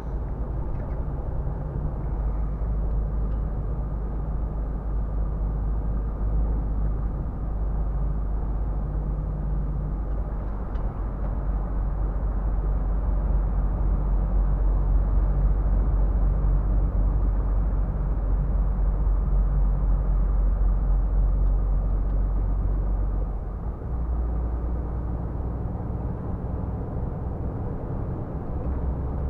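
Scania R450 truck's 13-litre six-cylinder diesel engine droning steadily at highway cruise, with tyre and road noise. A little past two-thirds of the way through, the engine note dips briefly and settles at a different pitch.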